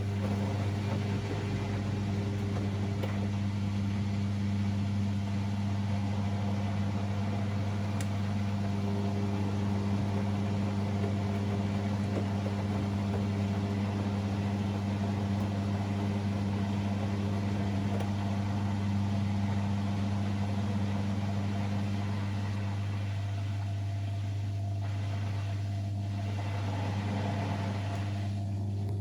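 Siemens Extraklasse XLS 140 A front-loading washing machine running mid-cycle with a steady, loud low hum that holds the same pitch throughout.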